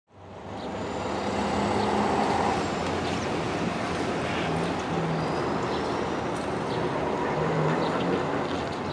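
Steady rumbling noise of a train on the railway alongside the platform, fading in at the start and then holding level, with a faint low hum in it.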